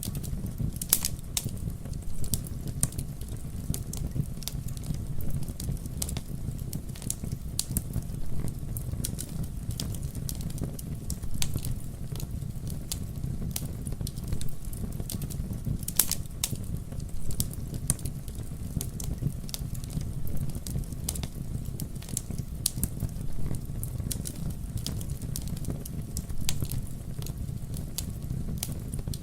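Wood fire burning steadily with a constant low rumble and frequent irregular crackles and pops.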